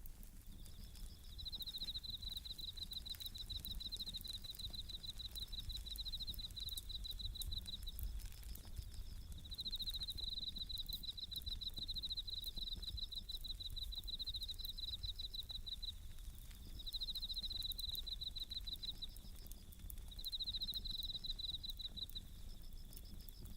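Japanese bell crickets (suzumushi) singing in repeated pulsing trills, each phrase a few seconds long, with short gaps between. Faint crackling clicks from a wood fire are scattered through.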